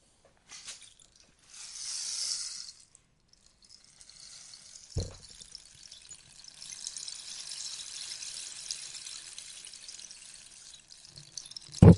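Rainstick tipped so the beads inside trickle down through it with a rain-like hiss: a short pour in the first few seconds, then a longer, steady one from about six seconds in. A soft knock about five seconds in and a louder knock near the end.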